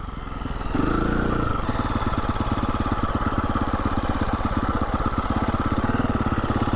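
Husqvarna 350 FE dirt bike's single-cylinder four-stroke engine pulling under throttle on a trail: quieter at first, it opens up about a second in and then runs at a steady, even beat.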